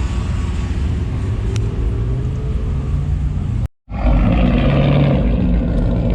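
Loud, steady rumble of truck engines running. The sound cuts out abruptly for a moment about three and a half seconds in, then comes back louder with revving engines.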